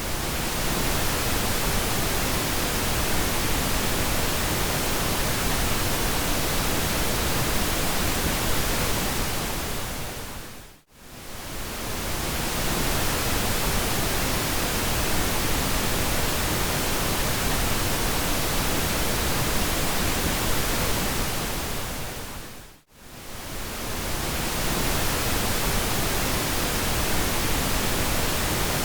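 Steady pink noise: an even, full-range hiss. It fades out to near silence and back in twice, about 11 seconds in and again about 23 seconds in.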